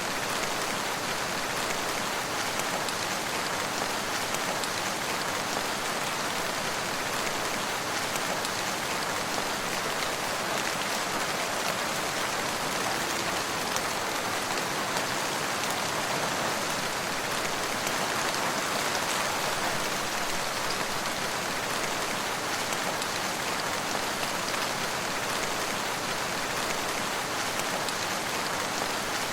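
Steady rainfall, a constant even hiss of many drops with no thunder or other events.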